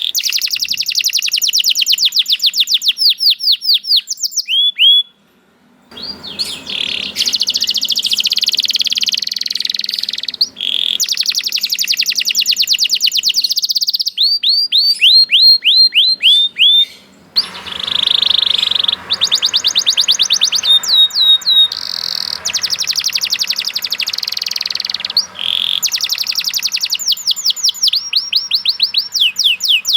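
Domestic canaries singing long, rapid trills: phrases of many quick repeated notes, each note a fast high-pitched sweep, with short pauses between phrases. There is a brief silence about five seconds in, and the background hiss changes twice, where separate recordings are joined.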